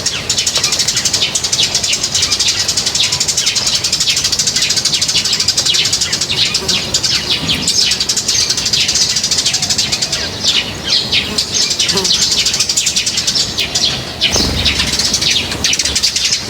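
A flock of small birds chirping continuously, a dense chatter of quick high chirps overlapping one another. A low rustling thump comes in about fourteen seconds in.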